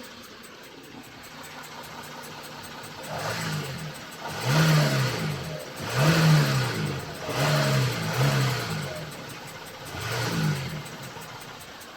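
A 2016 Audi Q7's 3.0 TDI V6 diesel idles steadily, then is blipped about six times, each rev rising and falling quickly. Under it runs the light ticking that the owner hears from the left side of the engine at idle, quickening as the revs rise.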